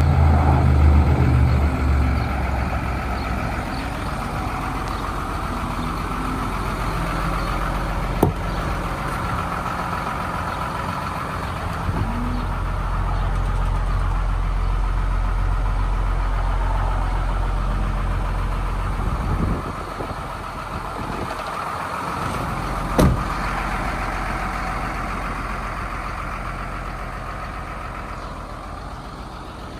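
Hino 268 box truck's diesel engine running, louder in the first two seconds, then settling to a steady idle. It is broken by a sharp click or knock twice, and the sound changes for a few seconds near two-thirds of the way through.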